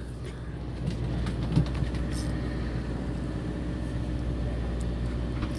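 Fishing boat's engine running steadily, a low even hum with faint steady higher tones.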